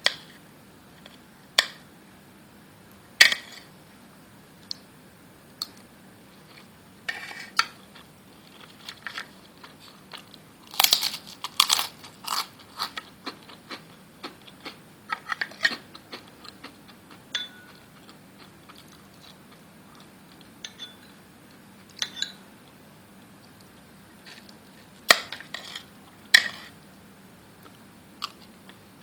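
Kitchen handling sounds: scattered sharp clinks, knocks and crunches of dishes and utensils, busiest for a couple of seconds near the middle.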